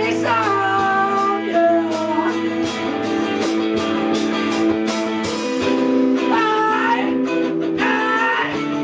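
Live rock band playing an instrumental passage: guitars holding sustained notes with a bending melodic line, over a steady drum and cymbal beat.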